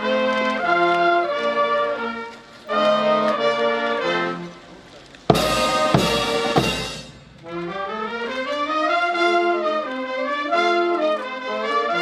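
Police brass band playing, trumpets and trombones holding short phrases with brief pauses. About five seconds in comes a loud burst of cymbal crashes and drum strokes, then the brass comes back in.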